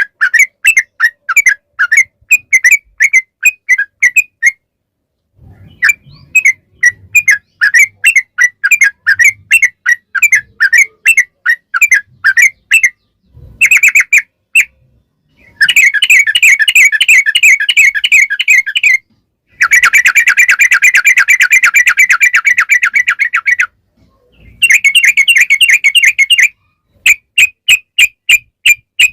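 Yellow-vented bulbul (trucukan) singing: fast chattering runs of bubbly repeated notes broken by short pauses, with two long unbroken rapid runs in the middle.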